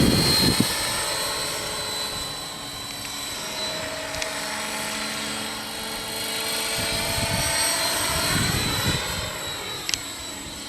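Electric 600-class RC helicopter flying: main rotor and electric motor running with a steady high whine, the pitch of its hum bending as it passes by about eight seconds in. Wind rumbles on the microphone in the first half second.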